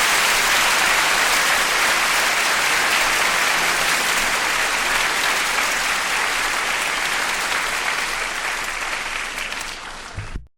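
Live audience applauding at the end of a song; the applause fades a little and cuts off abruptly near the end.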